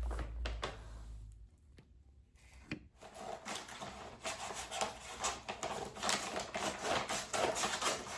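A delivery package being opened by hand: irregular rustling, crinkling and scraping of the packaging with small clicks, starting about three seconds in and carrying on continuously after that.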